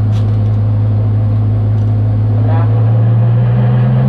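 BMW E46 330's straight-six engine heard from inside the stripped cabin, a steady drone that begins to rise in pitch near the end as the car accelerates.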